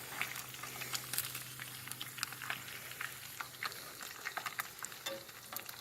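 Trout frying in a pan, with a steady sizzle and many small crackling pops.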